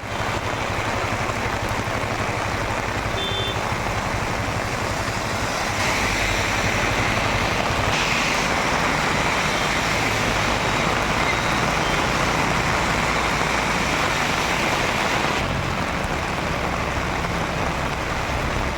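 Heavy rain pouring steadily, a dense hiss that grows louder about six seconds in and eases again a few seconds before the end, with a low vehicle rumble underneath.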